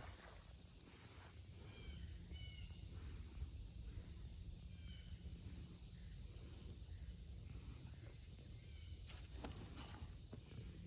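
Quiet outdoor ambience: a faint steady insect hum with a few short bird chirps, about two and five seconds in, and a few faint rustles near the end.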